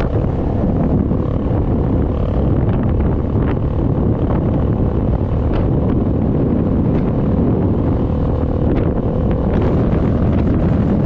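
Steady wind rush buffeting the microphone, over the drone of a moving vehicle and its road noise, with a faint steady hum running throughout.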